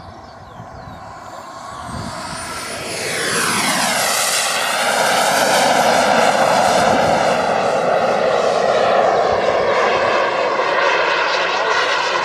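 Model jet turbine in a 2 m RC F-86 Sabre growing louder, its whine sweeping sharply down in pitch about three to four seconds in. It settles into a loud, steady jet rush with a whine on top.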